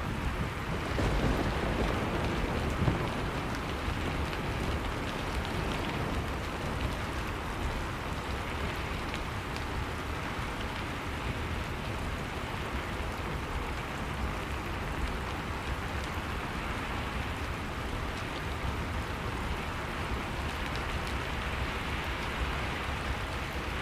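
Steady rain falling, a continuous even hiss of drops, with a low rumble swelling briefly in the first few seconds.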